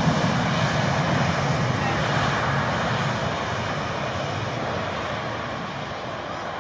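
Airbus A380's four jet engines at takeoff power during the takeoff roll: a steady rush of jet noise that slowly fades.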